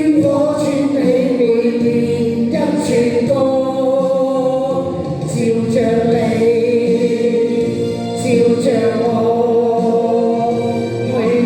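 Singing a Cantonese pop song chorus over backing music, with long drawn-out notes.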